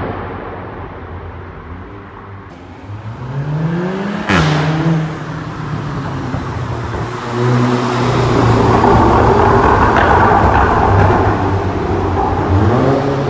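Volkswagen Golf 7R's turbocharged four-cylinder engine accelerating hard, its pitch rising, with a sharp exhaust crack about four seconds in. From about eight seconds the engine runs loud and steady, and the revs climb again near the end.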